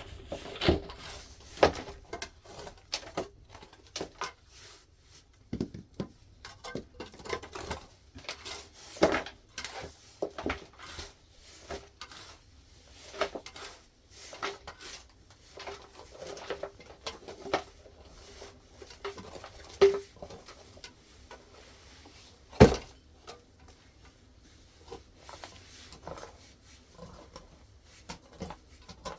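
Irregular knocks, clicks and clatter of objects being handled, with one sharp, louder knock about three-quarters of the way through.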